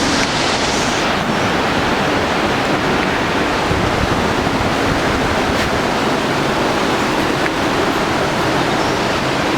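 Rushing river water running over boulders: a loud, steady roar.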